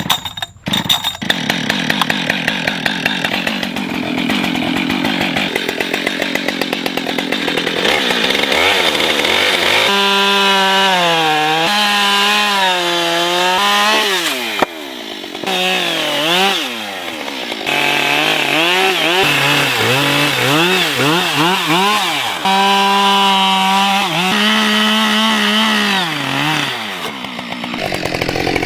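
Chainsaw coming in suddenly and then running while carving into wood, its engine note rising and falling over and over as the cuts load and free it.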